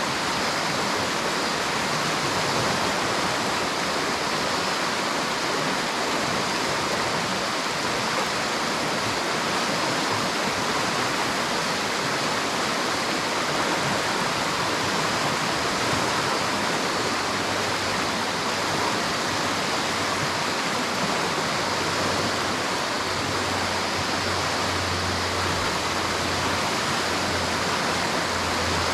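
River water rushing and splashing in a steady, unbroken flow. A faint low hum comes in about two-thirds of the way through.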